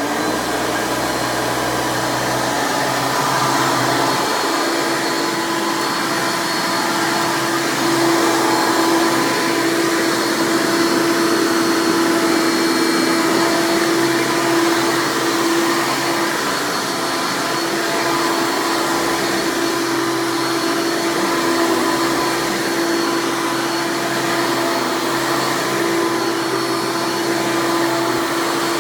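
A Hoover Legacy Dirt Finder upright vacuum with a 7.2-amp direct-air motor, running steadily at full speed. It is a loud, constant rush of air over a steady motor hum.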